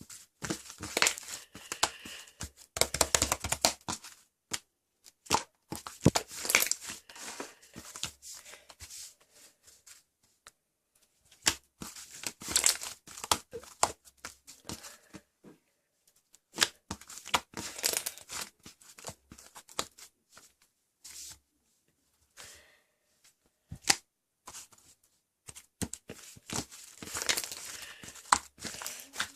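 Close handling noises: irregular bursts of crinkling and tearing with short pauses between them.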